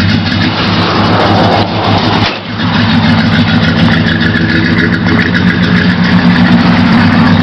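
1977 Chevy C10's 305 small-block V8 running just after a cold start in 8 °F weather. It falters briefly a little over two seconds in, then picks up and keeps running steadily.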